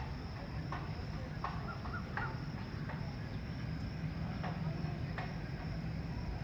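Steady low mechanical rumble with a continuous high-pitched whine over it, and short chirps, about one a second, from birds.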